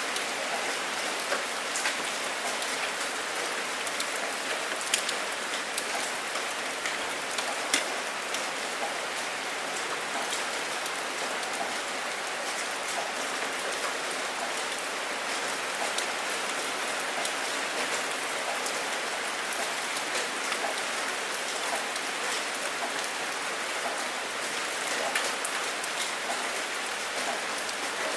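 Steady rain falling, with individual drops landing sharply now and then.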